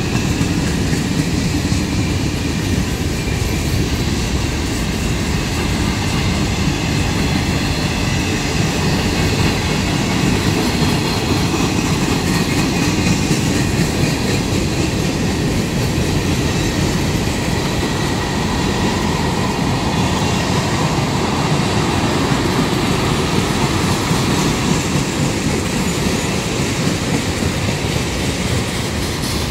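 Freight cars of a long train rolling steadily past: a continuous rumble and clatter of steel wheels on the rails, with a faint high squeal running through it.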